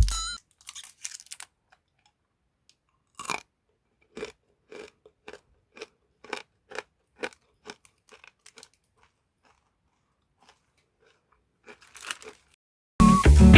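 Hard candy being bitten and crunched between the teeth close to the microphone: a run of sharp, separate crunches, about two a second at the busiest, with short quiet gaps between them.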